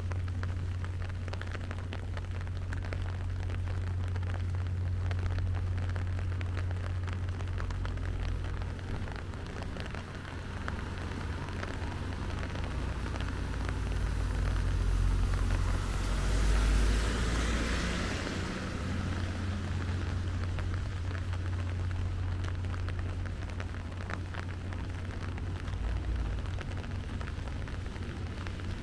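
Steady rain falling on the street, over a constant low hum. Just past the middle a rushing hiss swells and fades over about five seconds, a vehicle passing on the wet road, and it is the loudest sound.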